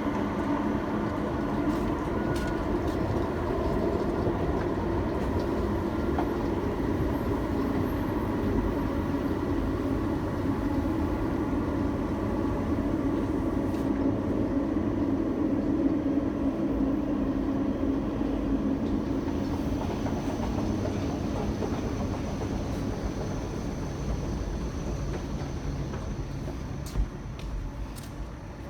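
O-Train Line 1 light-rail train (Alstom Citadis Spirit) running, a steady rumble of wheels and motors with a few humming tones. The sound fades in the last few seconds, with a few clicks near the end.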